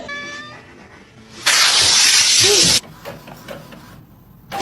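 A cat hissing: one loud hiss of about a second and a quarter that cuts off abruptly, after the fading end of a meow.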